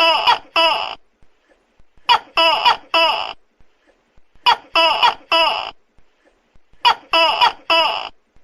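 Tokay gecko calling loudly: croaky, pitched 'to-kek' notes in clusters of three, with a cluster about every two and a half seconds, four clusters in all.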